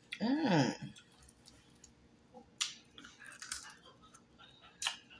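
A short hummed "mmm" near the start, then sparse close-up eating sounds: wet lip smacks, clicks and crunches as pieces of crispy deep-fried turtle are picked off the bone and chewed.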